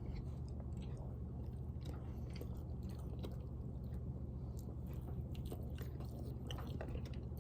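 A person chewing a bite of toast: faint, irregular crunching and mouth clicks over a steady low hum.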